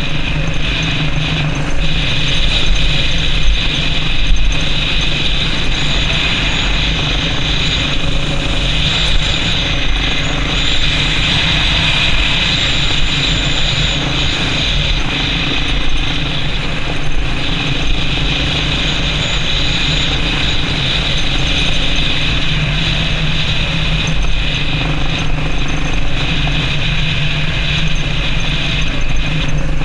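Yamaha Serow XT225's single-cylinder four-stroke engine running steadily while the motorcycle is ridden, with a constant mechanical rattle over it.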